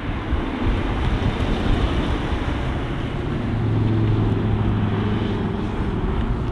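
A car engine running as it passes, its low engine note strongest midway, under heavy wind noise on the microphone.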